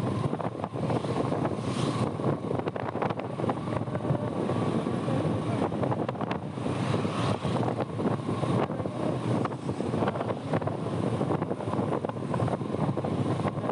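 Motorbike on the move: the engine and road noise under heavy wind buffeting on the microphone, with irregular crackles from the wind.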